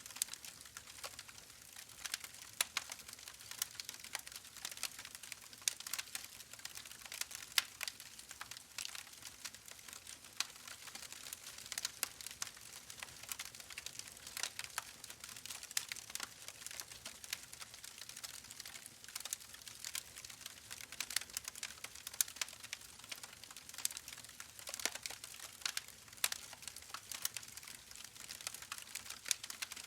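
Campfire crackling: a steady stream of irregular sharp pops and snaps over a faint hiss.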